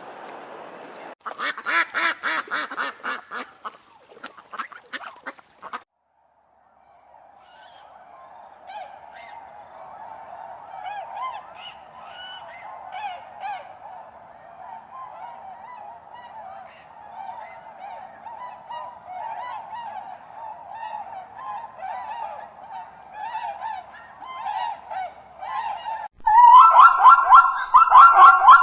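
A flock of geese honking: many overlapping calls that grow louder near the end. Before them comes a short run of rapid pulsed calls, then a brief silence.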